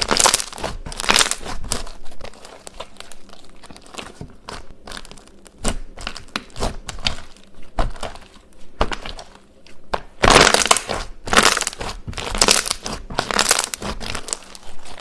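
Repeated crisp crunching and crackling of something brittle being crushed, in uneven clusters of sharp strokes. It is loudest at the start and again from about ten seconds in.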